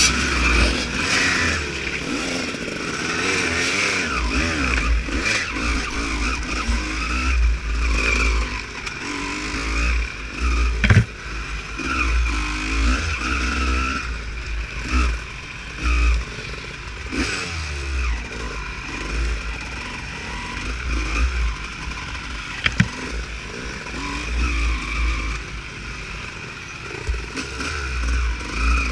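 Honda CR250 two-stroke motocross bike revving up and down as it is ridden off-road, with heavy low rumbling and a couple of sharp knocks, the loudest about a third of the way in.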